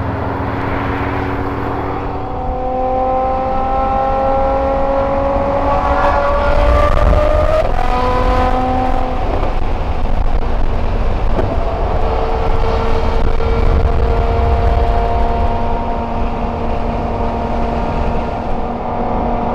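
Ferrari F12berlinetta's V12 engine, with a Kline Innovation aftermarket exhaust, pulling hard with its pitch climbing steadily for several seconds. It drops at an upshift about eight seconds in, climbs briefly again, then settles to a nearly steady note at cruising speed.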